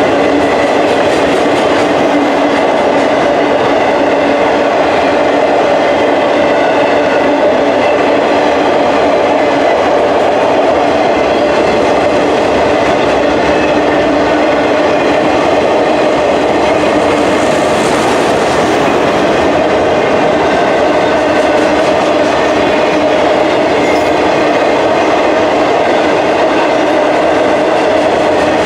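Freight train cars rolling past, a loud steady rumble of steel wheels on rail.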